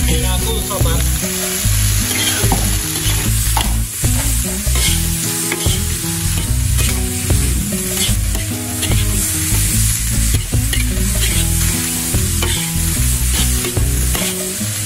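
Vegetables stir-frying in a metal wok: a steady sizzle, with a metal spatula repeatedly scraping and knocking against the wok as it tosses the carrots and cabbage.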